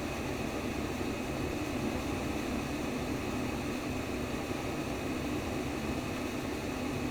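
Steady, unbroken white noise made to simulate the sound inside the womb, heaviest in the low-middle range, with no heartbeat or pulse.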